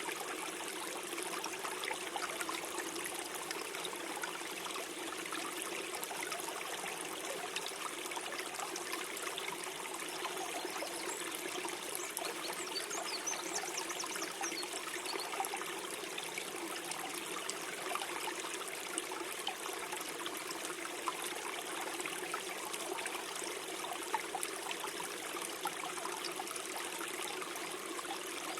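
A gentle stream flowing and gurgling steadily.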